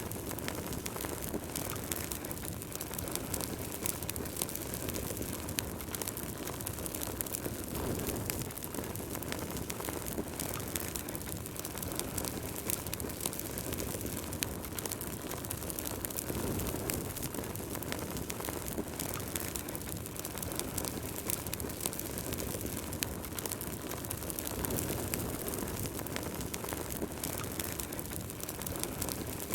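Wood fire burning in a fireplace: dense crackling with many small pops over a low rush of flames that swells now and then.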